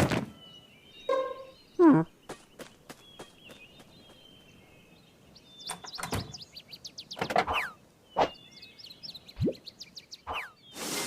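Cartoon sound effects: scattered clicks and short boing-like pitch slides, one falling slide about two seconds in and rising squeaks later, ending in a noisy whoosh.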